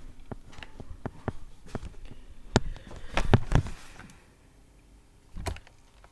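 Irregular clicks and knocks, busiest and loudest around the middle, then one more knock near the end.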